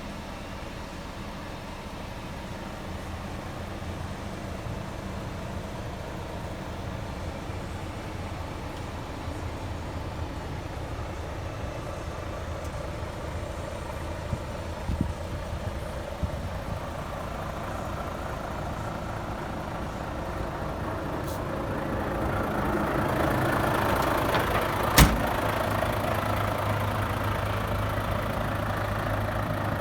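Volvo FH500 tractor unit's 13-litre six-cylinder diesel idling steadily. It grows louder about two-thirds of the way through, with a single sharp click shortly after.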